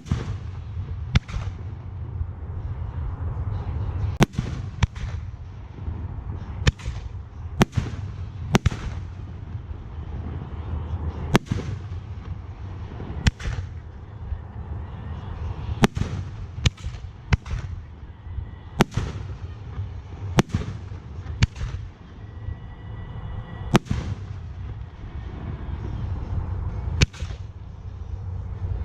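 Aerial fireworks display: shells bursting one after another, a sharp bang every second or two, over a steady low rumble.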